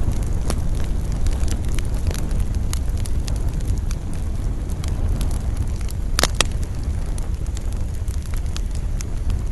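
Wood campfire crackling with frequent sharp snaps over a steady low rumble of wind. Two louder pops come close together about two-thirds of the way through.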